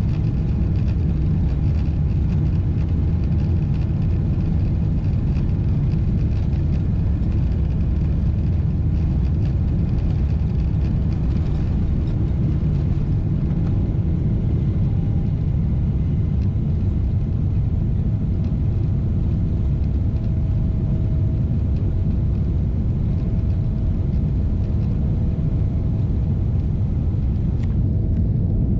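Steady cabin rumble of a Boeing 777-300ER heard from inside, its GE90 jet engines running at a constant setting with a faint steady whine.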